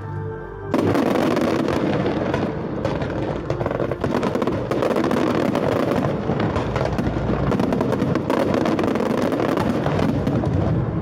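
Aerial fireworks going off in a dense barrage of rapid crackles and bangs, starting suddenly about a second in.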